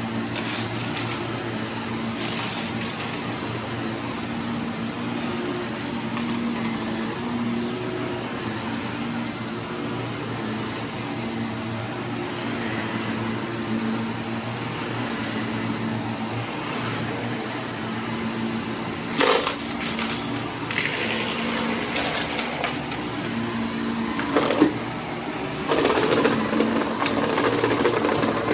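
Vacuum cleaner running with a steady motor hum, with short bursts of crackling and rattling in the second half as debris from a test mess is sucked up.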